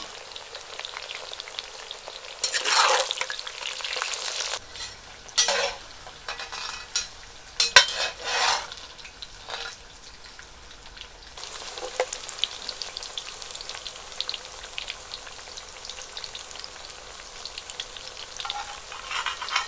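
Food frying in hot oil, a steady sizzle that surges louder several times, around three, five and eight seconds in.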